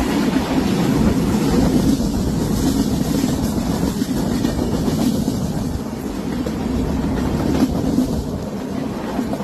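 Train running along the track: a steady rolling rumble with occasional faint clicks.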